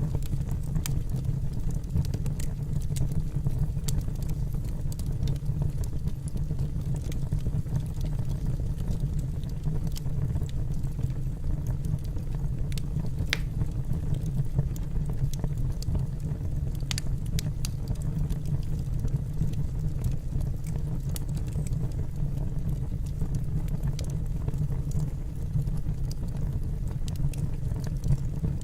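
Wood fire burning in a fireplace: a steady low rumble of the flames with scattered sharp crackles and pops of the burning logs, a few louder pops now and then.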